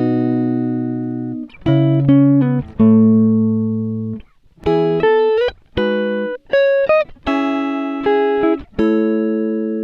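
Guitar music: a slow sequence of chords, each struck once and left to ring out and fade before the next.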